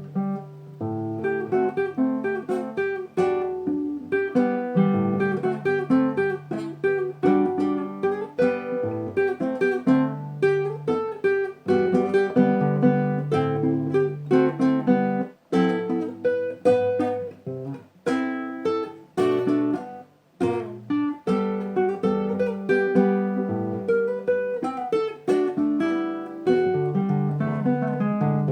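Acoustic guitar playing an instrumental tune, notes plucked and chords strummed in a steady flow, with no singing.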